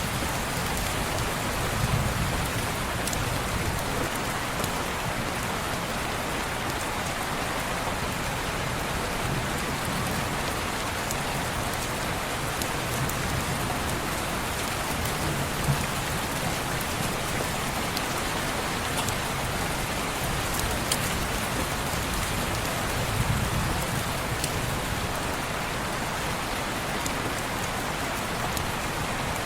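Steady heavy rain falling on window glass, an even hiss with a few faint scattered ticks and a low, slowly wavering rumble underneath.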